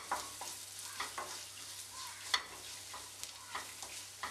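Spiced onion-and-garlic masala frying softly in ghee in a non-stick kadai, a gentle steady sizzle while a wooden spatula stirs and scrapes it, with a few sharper taps against the pan. The turmeric and chilli powder are being fried until their raw smell goes.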